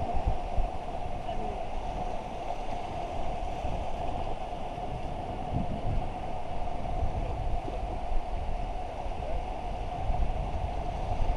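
Steady rush of fast river water, with wind buffeting the microphone in uneven low rumbles.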